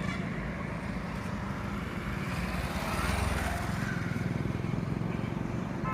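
Single-cylinder Yamaha FZ v2 motorcycle engine running under way, with road and wind noise, swelling a little louder about halfway through.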